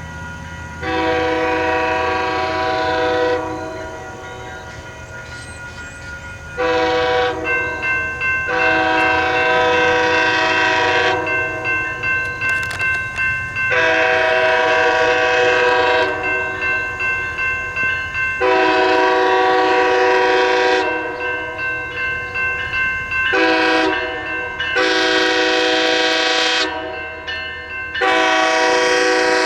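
Locomotive air horn sounding a chord of several notes in a long run of blasts, mostly two to three seconds each. Some are broken into quick pulses. A low rumble from the locomotive runs beneath, plainest at the start.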